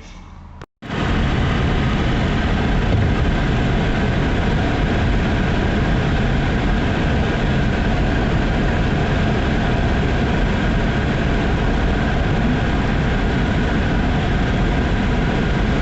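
Steady road and engine noise inside a car's cabin while driving on the highway, starting about a second in after a brief silent gap.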